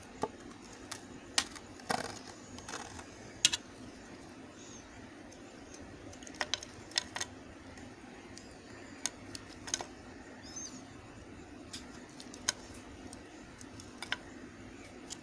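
Bars of hard soap being handled and cut: irregular sharp clicks and taps, about a dozen, bunched more in the first half, over a steady low hum.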